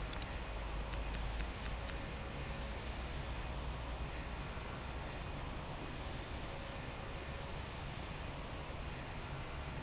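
Low, steady rumble of a distant jet aircraft's engines, easing off slightly after the first few seconds, with a few faint clicks in the first two seconds.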